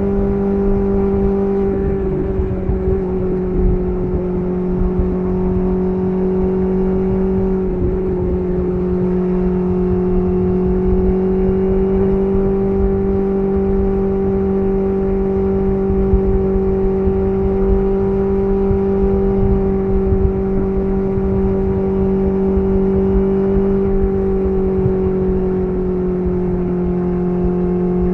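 BMW S1000RR inline-four engine through an SC Project CR-T titanium exhaust, running at a steady cruising pitch. The throttle is held nearly constant, with a slight rise in pitch about a third of the way in and a small dip near the end.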